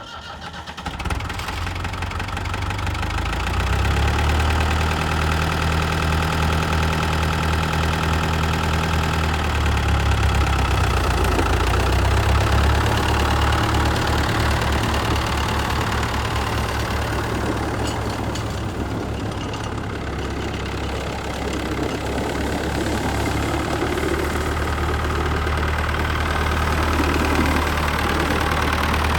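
Ford 5000 tractor's four-cylinder engine running steadily at idle, with a low, even throb.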